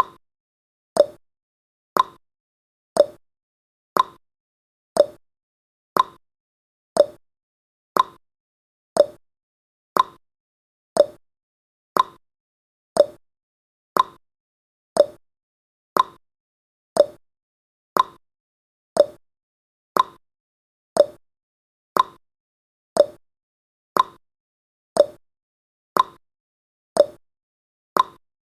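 Countdown timer's clock-ticking sound effect: one sharp tick every second, alternating between a higher and a lower tick like a tick-tock.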